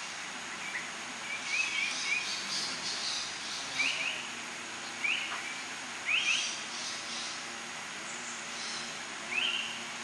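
Birds calling: a series of short, rising chirps, some a second or so apart, with fainter, higher twittering behind them, over a steady background hiss.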